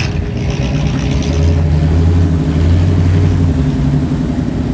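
A car engine running with a low, steady rumble that swells louder for a few seconds and then drops away about three and a half seconds in.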